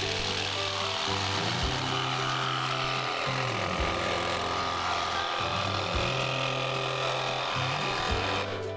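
A power tool working material, a steady rasping noise that cuts off near the end, over background music with a bass line.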